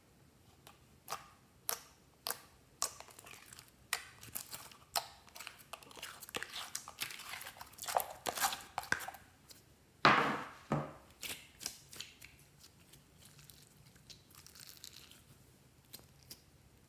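Close-up hand-handling sounds: a run of sharp clicks, crackles and rustles, busiest in the middle and loudest about ten seconds in, then thinning out.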